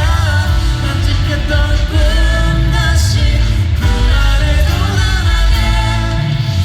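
A rock-pop song performed live, with a singer's melody over a full band and heavy bass.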